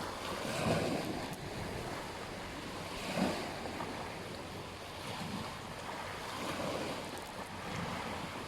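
Ocean waves washing onto a beach, a steady rush of surf that swells a little a couple of times, with wind on the microphone.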